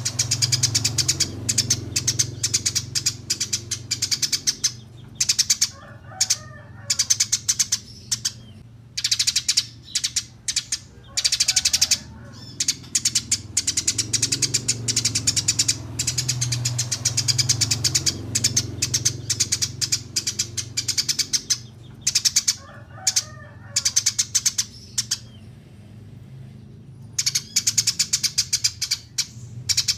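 Eurasian tree sparrows chirping in fast runs of short, sharp chirps, broken by brief pauses.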